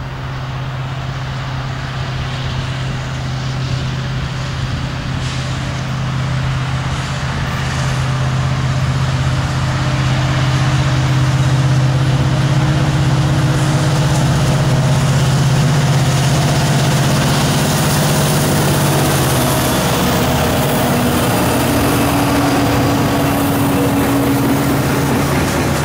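A Norfolk Southern SD70ACe leading an SD90MAC diesel-electric locomotive, approaching with a steady low engine drone that grows louder over the first half and then passes. They are followed by loaded coal hopper cars rolling by on the rails.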